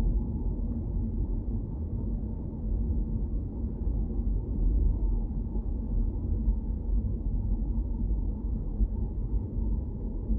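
Steady low rumble of a car driving, its road and engine noise muffled, with nothing sharp or high-pitched in it.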